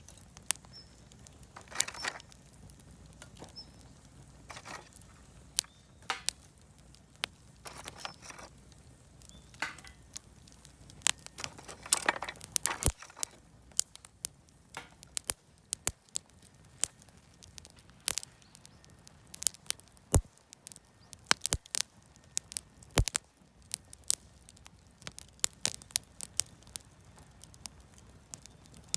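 Campfire of wood offcuts and firewood crackling: irregular sharp pops and snaps, with a few short hissing flares.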